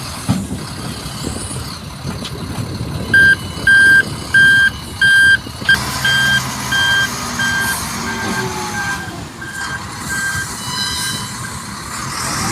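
Truck reversing alarm beeping about one and a half times a second over the running engine. The beeps start about three seconds in, loud at first, then grow fainter and stop about ten seconds in.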